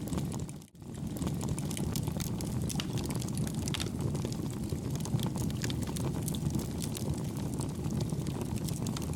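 Campfire burning with a steady low rumble and soft, scattered crackles and pops. The sound drops out briefly under a second in.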